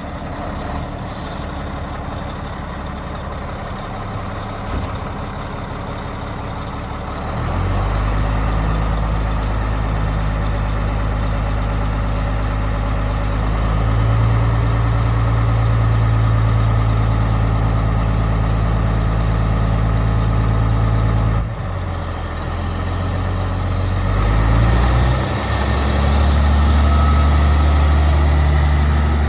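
Caterpillar D400E Series 2 articulated dump truck's diesel engine running: it settles at a lower speed at first, then steps up to a louder, higher speed about seven seconds in. It drops back for a few seconds past the middle and rises again near the end.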